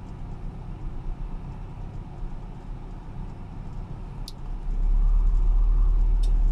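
Car engine idling with its idle air control valve removed and the air conditioning switched on. About four seconds in a sharp click is heard as the AC compressor engages, and the engine's rumble gets clearly louder, with a faint whine, as the compressor loads it; a second click comes near the end.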